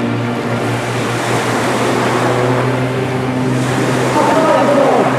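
CAP 231 aerobatic plane's six-cylinder Lycoming piston engine and propeller droning steadily through a display pass, its pitch bending slightly near the end.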